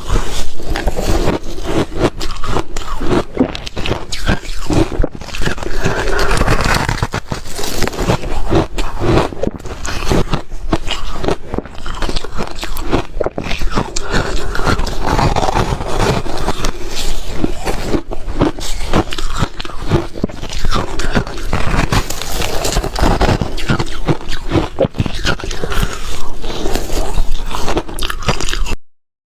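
Ice being bitten and chewed close to the mouth: a dense, unbroken run of sharp crunches and cracks, with a short break just before the end.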